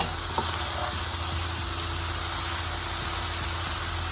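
Vegetable stir-fry sizzling steadily in a hot pan, over a steady low hum.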